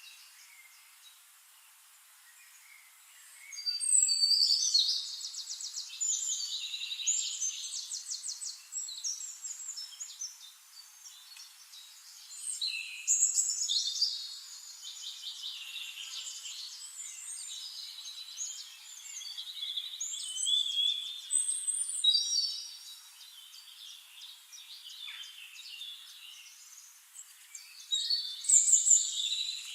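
Songbirds singing in several bouts of fast, high-pitched warbling phrases with rapid trills, with quieter gaps between bouts. The first bout starts a few seconds in, and another loud bout comes near the end.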